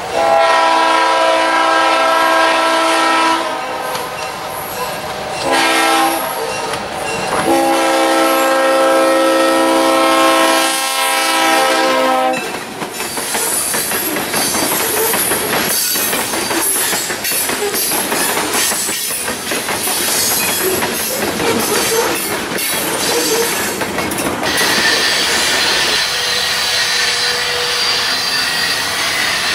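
A freight train's diesel locomotive air horn sounds a multi-note chord at a grade crossing: a long blast, a short one, then another long one. Then the train's cars roll past with clickety-clack of the wheels over the rail joints. Near the end the passing noise fades and a steady high squeal is left.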